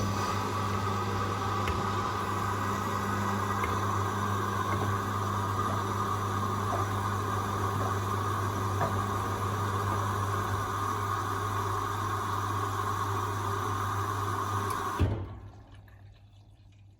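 Hoover Rapid 44 washing machine filling with water: a steady low hum with an even rush of water, cutting off suddenly with a click about fifteen seconds in, followed by faint ticking.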